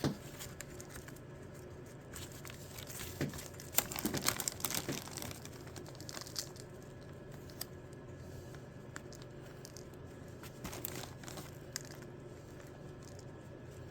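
Rustling and crinkling of hands handling fatwood sawdust, with scattered small clicks, busiest about four seconds in, over a faint steady hum.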